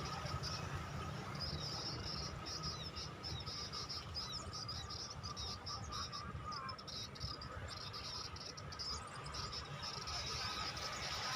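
Insects trilling in fast, pulsing bursts over a steady high hum, with a low rumble underneath.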